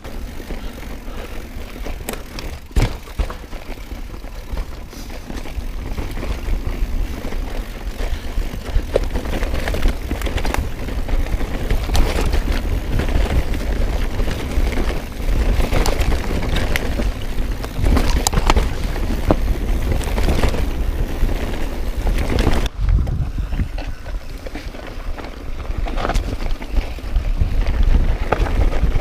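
Mountain bike rolling over a dirt singletrail: steady tyre and low rumble noise, with the bike's chain and frame rattling and knocking over bumps many times a second.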